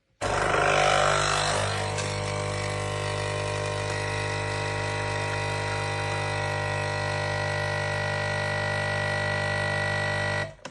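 Nespresso capsule coffee machine brewing: its pump starts suddenly and runs with a steady hum, with extra hissing water noise over the first couple of seconds. It cuts off just before the end.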